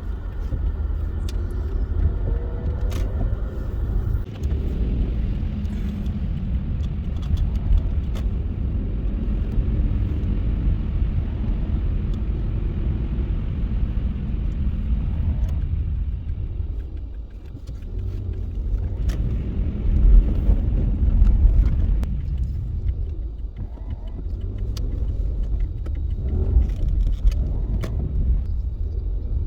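A car driving: a steady low rumble of engine and road noise, easing off briefly just past halfway and growing louder again a few seconds later, with a few faint clicks.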